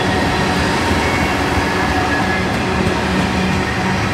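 Freight train cars, tank cars and boxcars, rolling past at steady speed: the steel wheels make a continuous rolling noise on the rails, with faint steady tones over it.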